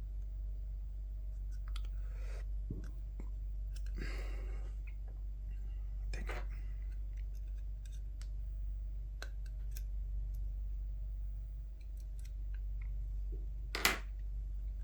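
Faint scattered clicks and rustles of headset wires and small plastic parts being handled, with one sharper click near the end, over a steady low hum.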